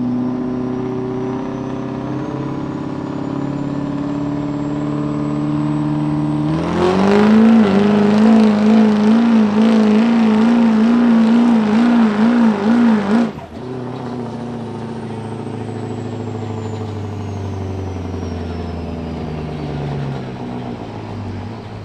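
Ford diesel pickup truck pulling a weight-transfer sled. The engine builds with a rising turbo whistle, then about six seconds in the revs jump and warble up and down under full load for about seven seconds before cutting off suddenly. The engine then drops back to a lower, steady run as the turbo whistle falls away.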